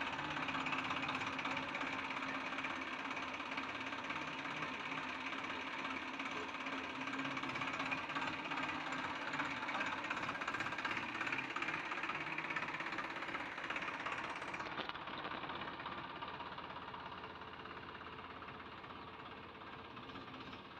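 Tractor's diesel engine running steadily, its sound slowly fading over the last few seconds.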